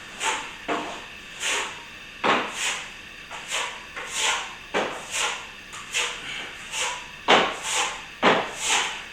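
Plastering trowel swept across plaster in short scraping strokes, about two a second at an uneven pace: the finish being polished with water.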